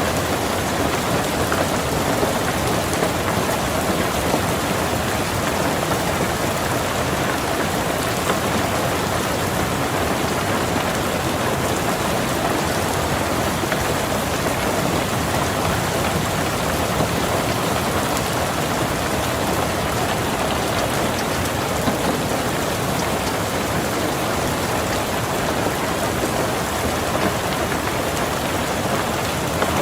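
Steady rain falling on a car, heard from inside the car, a constant hiss with the fine patter of individual drops.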